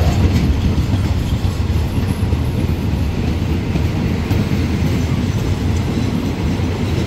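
State Railway of Thailand passenger coaches rolling past at low speed on the adjacent track: a steady, loud low rumble of wheels on rail.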